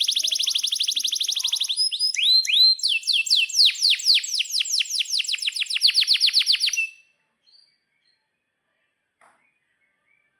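Domestic canary singing long rolling trills of rapid, high, downward-sweeping notes, broken briefly by a few separate notes, with the song stopping about seven seconds in.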